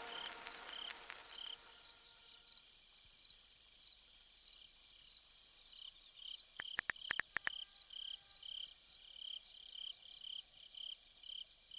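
Night crickets: a steady high trill under a second cricket chirping regularly a few times a second, with a brief run of quick clicks a little past halfway.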